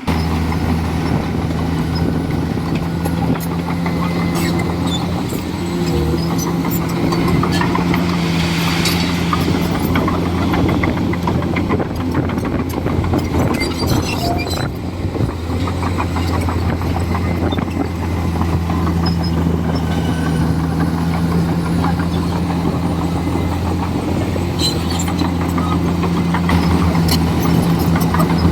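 Komatsu D41E bulldozer's diesel engine running steadily at working revs, with scattered sharp clicks and cracks over it.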